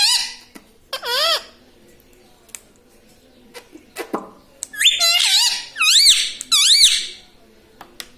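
Indian ringneck parakeet calling in high, wavering squeaky squawks: a short call about a second in, then a run of several calls between about five and seven seconds. A sharp click comes just before the run.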